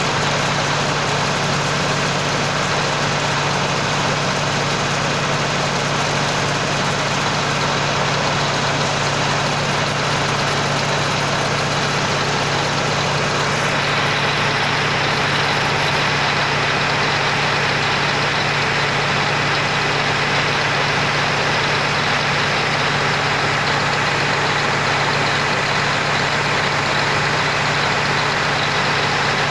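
Tractor engine running at a steady speed, powering a sprayer, with a steady hum and an even noise above it; the higher part of the noise drops a little about fourteen seconds in.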